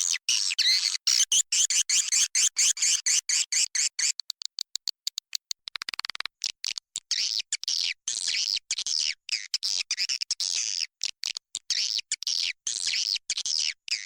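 Swiftlet lure call: a dense mass of edible-nest swiftlets twittering and chirping in a swiftlet house, all high-pitched, cut by many brief dropouts that make it choppy. It is played to draw wild swiftlets in to nest.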